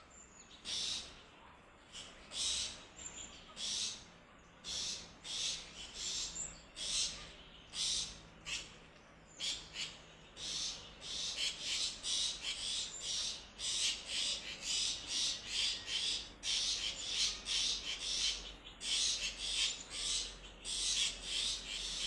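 Repeated short raspy, hissing animal calls, high in pitch, at first about one a second and from about halfway on two to three a second.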